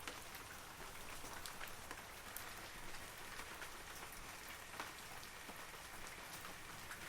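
Steady rain falling on forest trees, an even hiss with scattered individual drops ticking clearly above it.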